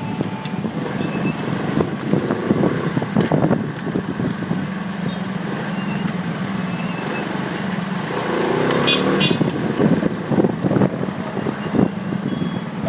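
Motorcycle engine running steadily while riding in street traffic, picked up by a phone mounted on the bike, with road and traffic noise around it. The engine pitch rises briefly about eight seconds in.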